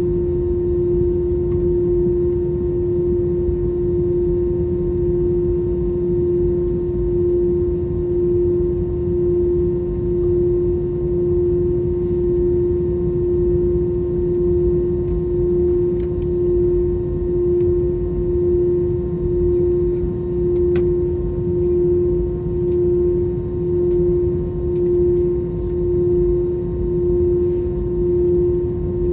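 Cabin noise of an Airbus A321's two CFM56 engines at taxi power: a steady hum over a low rumble, pulsing slowly about once a second as the two engines run at slightly different speeds.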